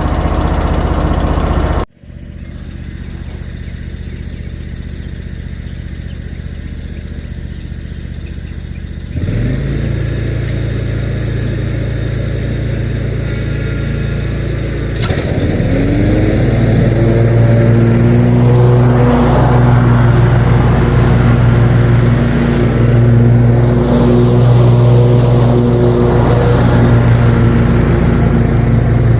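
Riding lawn mower engine running steadily while mowing, in several pieces that cut abruptly from one to the next about two, nine and fifteen seconds in. After the last cut the engine's pitch rises briefly, then holds steady.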